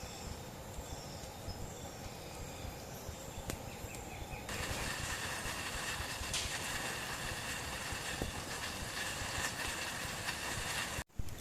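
Amazon rainforest dawn ambience: insects and birds calling over a steady low rumble. About halfway through it switches abruptly to a louder, hissing insect drone. It cuts out for a moment just before the end.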